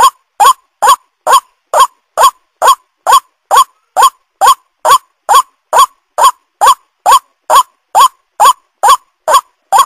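White-breasted waterhen (ruak-ruak) call: a short note that rises slightly in pitch, repeated evenly about twice a second without a break, as played in a bird-lure recording.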